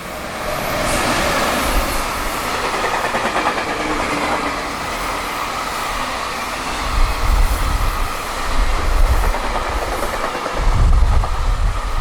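High-speed freight train hauled by a JR Freight EF210 electric locomotive passing at speed, its wagons' wheels clattering over the rail joints in a steady rush. Gusts of wind buffet the microphone.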